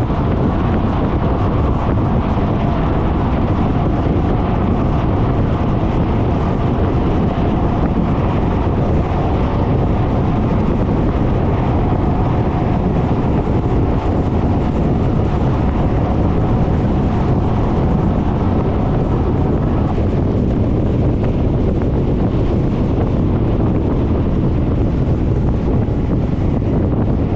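Steady wind rush over the microphone of a Suzuki Burgman 400 scooter on the move, with engine and road noise underneath. A faint steady whine runs through the middle stretch.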